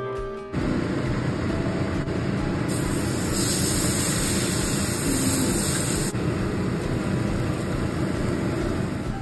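Zucchini pancake batter frying in oil in a stainless steel pan: a steady sizzle over a low rumble. The sizzle turns sharply louder and hissier from about three to six seconds in, as batter goes into the hot pan.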